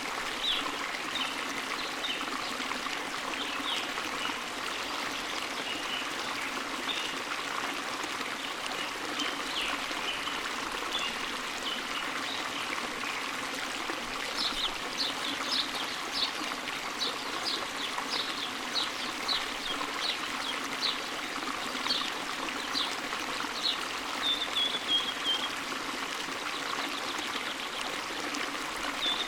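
Forest stream running steadily, with a small bird singing over it: scattered high chirps, then from about halfway a run of quick repeated notes that ends in a short trill.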